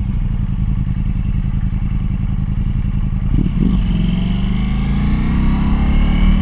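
Motorcycle engine running at a steady speed, then rising in pitch as the bike accelerates over the last couple of seconds.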